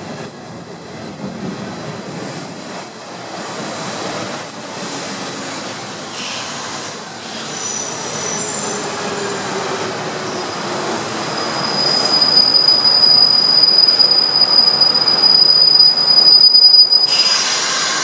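Nishitetsu 5000 series electric train pulling into the station and braking to a stop. Its running noise grows louder, a whine falls in pitch as it slows, then a steady high brake squeal holds for several seconds, ending in a short burst of hiss as the train halts.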